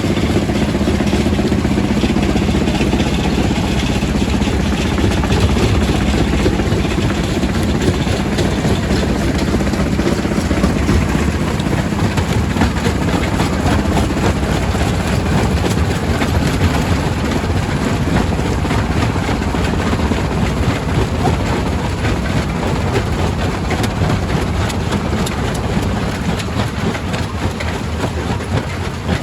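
Quarry primary rock crusher running, a steady machine drone with a dense rattle of stone knocking inside it. A hum in the drone fades out about halfway through.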